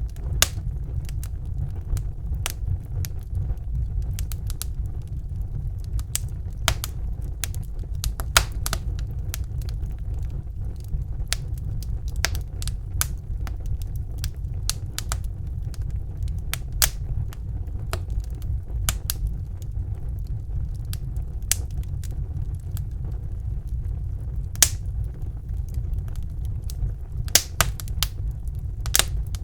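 Wood fire crackling in a fireplace: irregular sharp pops and snaps over a steady low rumble of the flames, with a few louder pops, one about 25 seconds in and a cluster near the end.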